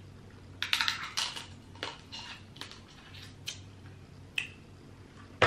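Close-miked chewing and mouth sounds from eating crab leg meat: a string of short, irregular clicks and smacks.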